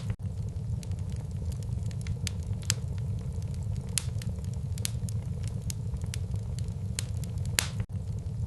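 Wood fire burning in a fireplace: irregular sharp crackles and pops over a steady low rumble of flames. The sound drops out for an instant twice, once just after the start and once near the end.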